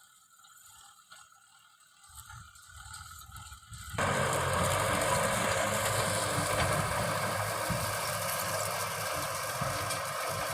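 Faint mechanical clicking with a low rumble building, then about four seconds in a sudden jump to a loud, steady Kubota M6040 tractor diesel engine running, with a broad rushing noise over it.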